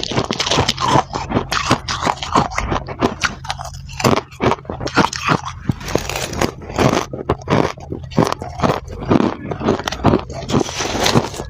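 Freezer frost being bitten and chewed: a dense, irregular run of crisp crunches and crackles several times a second, with scraping, and a short lull about four seconds in.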